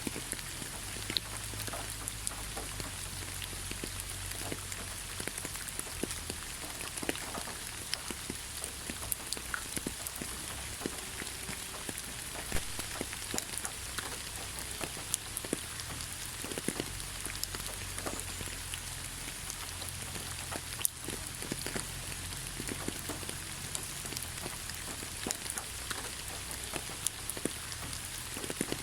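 Steady rain falling on leaves: an even hiss dotted with many separate drop taps.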